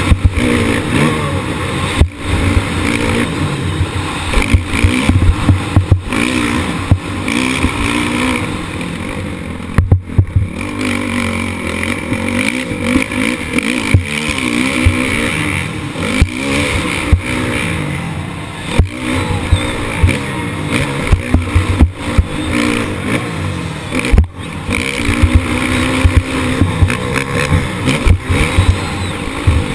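Motocross bike engine heard close up on an onboard camera, revving up and down again and again as it is ridden hard, with frequent sharp knocks and jolts.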